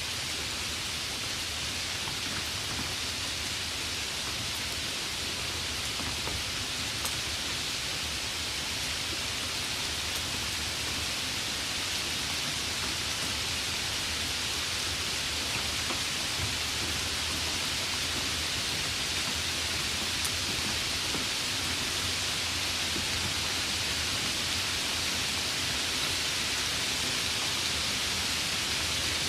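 Steady rain falling: an even, unbroken hiss with a few single drop ticks standing out.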